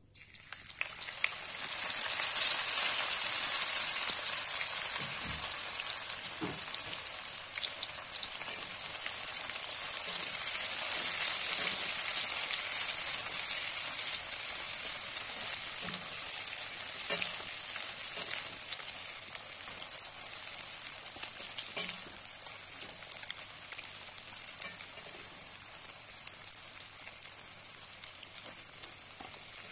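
Small dried fish sizzling in hot oil in an aluminium kadai, with scattered pops. The sizzle starts suddenly as the fish are tipped in, then slowly dies down.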